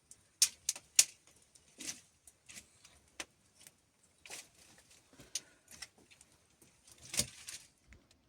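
Irregular light clicks and knocks, about a dozen at uneven spacing, with the loudest knock about seven seconds in.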